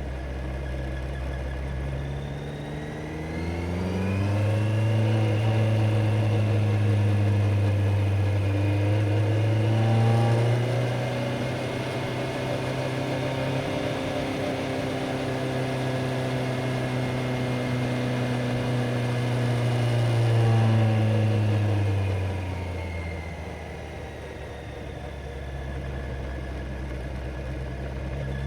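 Kawasaki Z900's inline-four engine under way: it revs up over a few seconds and holds a steady drone while cruising. Around twenty seconds in it winds down, then begins to pick up again at the end.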